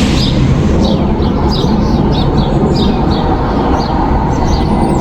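Several songbirds chirping, with short calls repeating a few times a second, over a steady low rumble.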